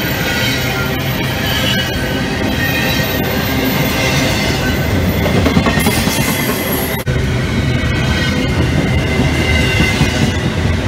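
A freight train's cars passing close by: steady rumble of steel wheels on rail with repeated clicks over the rail joints and a thin, high wheel squeal. There is a brief break about seven seconds in.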